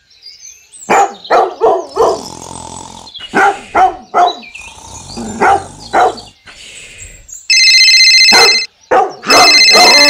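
A dog barking: a series of short barks over the first seven seconds. Near the end comes a loud, steady high-pitched tone, broken once.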